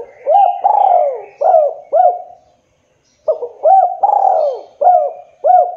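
Spotted dove (tekukur) cooing: two phrases of about five rolling, low coos each, with a short pause between them.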